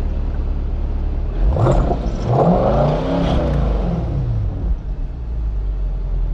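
2024 C8 Corvette's naturally aspirated 6.2L LT2 V8 on its stock exhaust in Track mode, idling and then revved about a second and a half in: a quick blip and then a longer rev that climbs, peaks and falls back to a steady idle.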